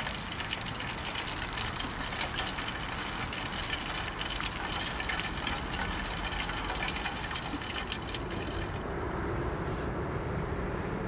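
Food sizzling and crackling in hot oil, a steady hiss full of fine pops; the crackle thins out near the end.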